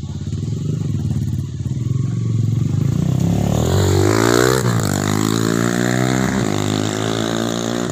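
Trail motorcycle with a homemade 'roncador' exhaust running loudly. Its engine note climbs steeply about three to four seconds in, then drops back and settles.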